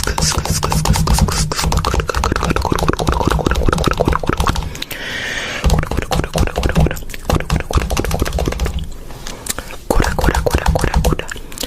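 Slime being squished and poked: a dense run of wet, irregular clicks and crackles, with a short hiss about five seconds in.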